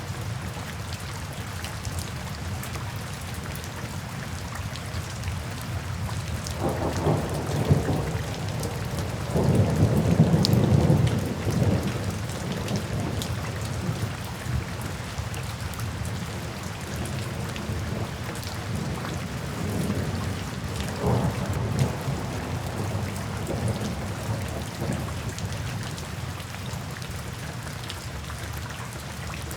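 Steady rain falling, with rolls of thunder: a rumble about a quarter of the way in, a louder, longer one just after it, and a weaker one past the middle.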